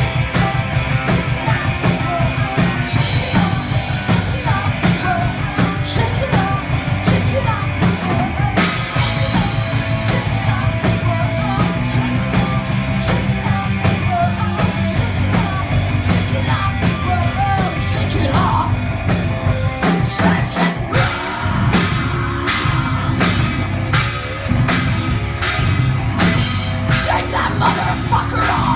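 Heavy metal band playing live: distorted guitars and bass over fast, dense drumming that switches about two-thirds of the way in to slower, heavier accented hits.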